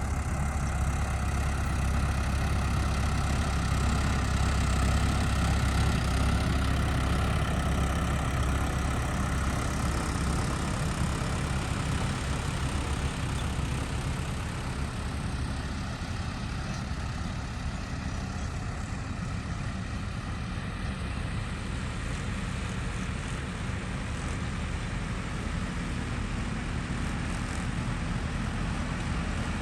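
Tractor engine running steadily with a deep drone, easing slightly in level about halfway through.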